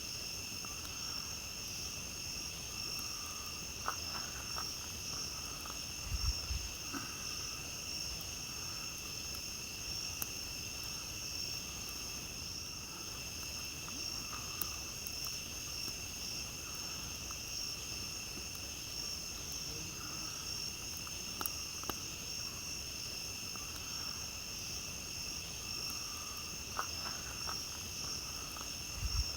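A steady chorus of night insects, mainly crickets, trilling without a break, with sharp pops and crackles from a campfire every few seconds. There is a brief low thump about six seconds in.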